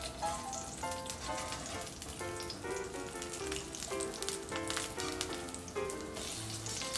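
Eggplant slices shallow-frying in oil in a cast-iron skillet, a steady sizzle with fine crackles, as the slices are turned with a metal spatula. A light plinking melody of background music runs alongside.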